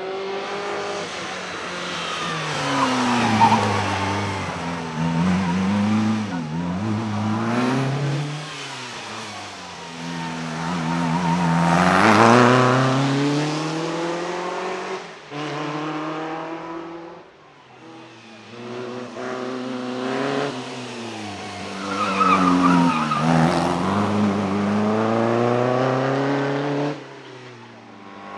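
Vintage racing car engines revving hard as the cars drive past, the pitch climbing and dropping again and again through gear changes. There are several separate loud passes.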